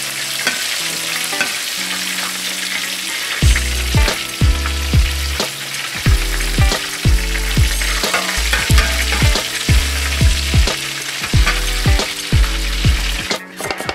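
Food frying in a pan of hot oil, a steady sizzle. Background music with pitched tones runs underneath, and from about three seconds in a heavy bass beat about twice a second is the loudest thing.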